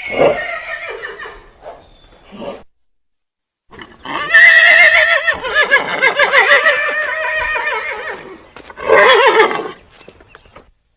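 Horse whinnying: a long, quavering whinny of about four seconds starting some four seconds in, followed a moment later by a shorter one.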